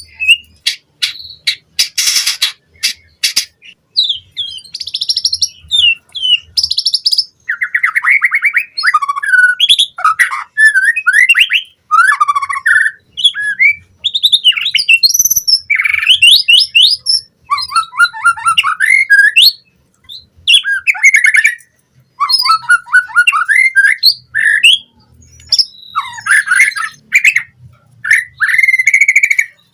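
White-rumped shama (murai batu) singing continuously: a fast, ever-changing string of loud whistles, chirps and warbles full of mimicked phrases (isian). A run of sharp clicking notes comes about two seconds in.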